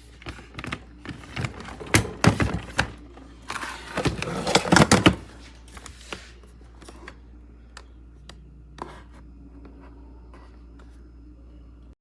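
Hard objects being handled and set down: a dense flurry of sharp clicks and knocks, loudest between about two and five seconds in, then a few scattered single clicks over a steady low hum.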